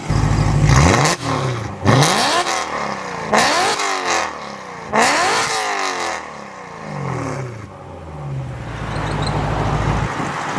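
Straight-piped BMW E92 M3's 4.0-litre V8 revved hard four times in quick succession, each rev climbing and then falling away, before it settles back to idle. The exhaust is loud.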